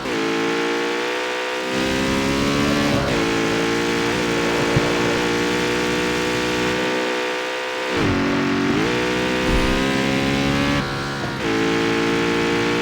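Jaguar F-Type's supercharged V8 accelerating through the gears: the engine note climbs steadily, then drops sharply at each upshift, three times.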